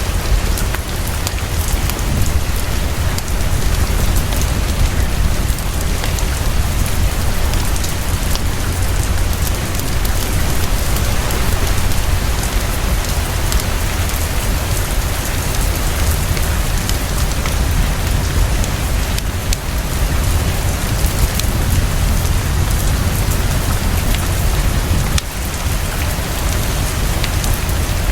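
Heavy, fast, steady rainfall with a deep low rumble, mixed with the small sharp crackles and pops of a fireplace throughout.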